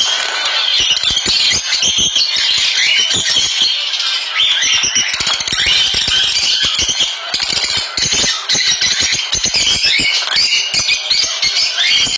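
Many birds chirping and squawking at once in a dense, continuous chorus of short calls, with frequent short knocks underneath.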